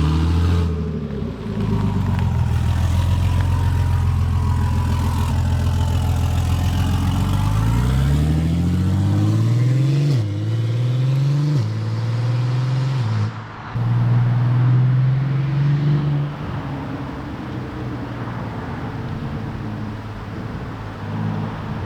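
Single-turbo BMW G80 M3's straight-six engine running hard. It holds a steady note, then revs climb and drop sharply three times in quick succession about halfway through as it shifts up. After that it settles to a steadier, quieter note.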